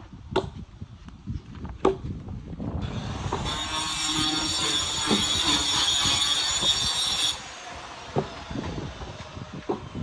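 Power saw cutting through firewood: a loud, high-pitched whine that starts about three seconds in, holds steady for about four and a half seconds, and stops abruptly. Knocks from the wood being handled come before and after it.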